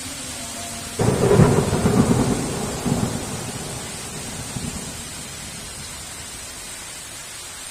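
Thunder over steady heavy rain: about a second in, a sudden clap breaks into a rolling rumble with a few further peaks, then fades out over about four seconds, leaving the even hiss of rain.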